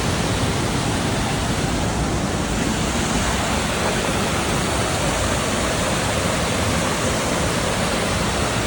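Stream water rushing steadily over rocks, an even hiss with no breaks.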